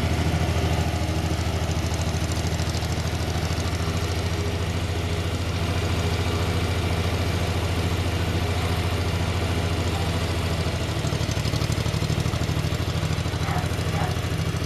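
Tractor engine running steadily, its note shifting slightly about eleven seconds in.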